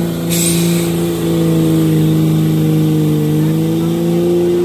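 Truck engine held at high revs, a steady drone whose pitch sags slightly about three seconds in and then recovers. A short hiss sounds about a third of a second in.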